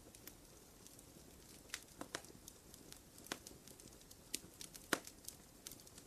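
Campfire crackling softly: irregular small pops over a low steady hiss, with a few sharper snaps, the loudest about five seconds in.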